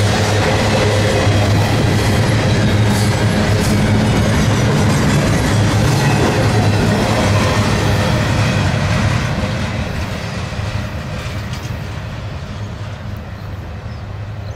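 Norfolk Southern intermodal train's double-stack container well cars rolling past on the rails, a loud, steady rolling noise. About nine seconds in it begins to fade as the end of the train passes and draws away.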